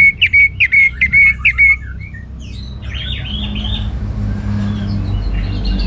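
Orange-headed thrush singing: a quick run of about eight clear, repeated whistled notes, then after a short pause a brief, varied phrase.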